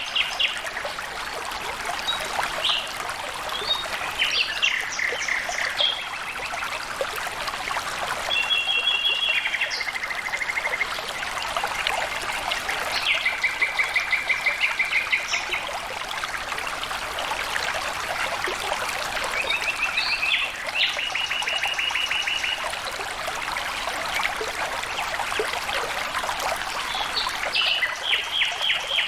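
Water trickling and flowing steadily, like a small stream. Over it, birds call several times in short, fast trills of rapidly repeated high notes.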